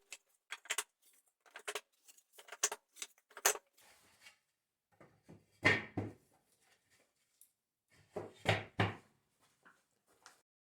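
Wooden boards and pieces knocking and clattering as they are handled: a quick run of sharp taps, then two heavier knocks, one about halfway through and one towards the end.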